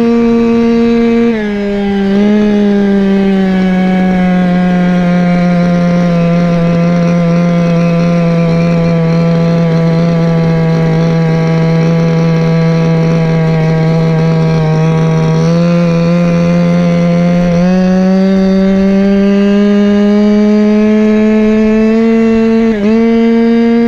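Go-ped scooter's CY26RC small two-stroke engine running at high revs while riding. Its pitch drops slightly about a second in, holds steady for a long stretch, then climbs back up about two-thirds of the way through, with a brief dip near the end.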